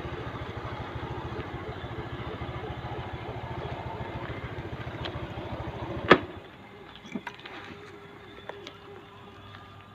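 Motorcycle engine idling with a steady fast pulse, then cut off about six seconds in with a sharp click; a few faint clicks and knocks follow.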